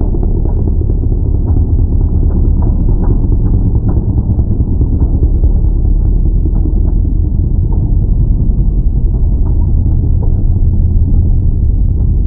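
Drag car's engine idling with a loud, steady low rumble as the car creeps up to stage at the starting line.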